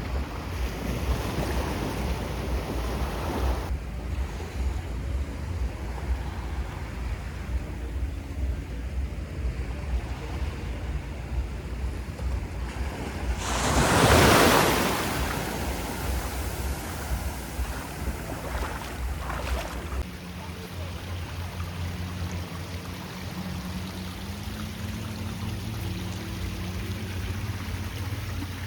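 Sea waves washing onto the beach, with wind rumbling on the microphone; one wave breaks louder about halfway through. Later the wind drops, and a faint low hum of a few steady tones comes in.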